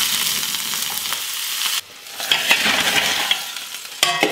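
Pumpkin-leaf and moong dal sabzi sizzling in a wok as a metal spatula stirs it. The sizzle cuts off abruptly about two seconds in, then the spatula scrapes the cooked mix out of the wok into a steel pot, with a brief ringing sound near the end.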